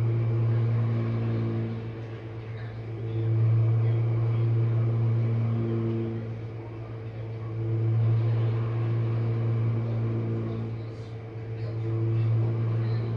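Jenn-Air dishwasher running, its motor giving a steady low hum with a few higher tones, swelling and fading about every four seconds.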